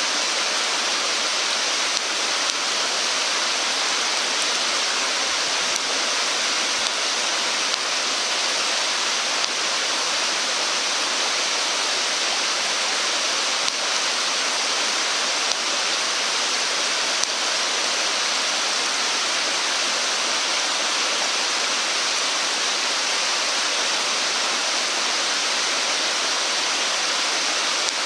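Steady rushing water, like a stream, with a few faint clicks.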